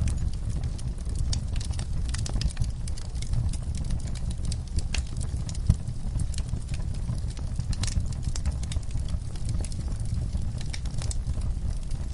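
Wood fire burning in a fireplace: a low steady rumble of flames with frequent irregular crackles and snaps, one louder pop a little over halfway through.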